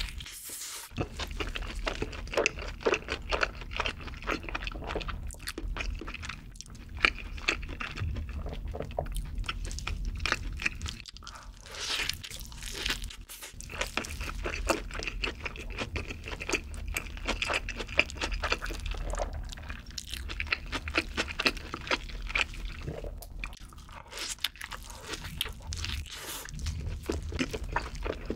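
Close-miked biting and chewing of a burger dipped in cheese sauce: a bite at the start, then continuous chewing full of small crackles and crunches.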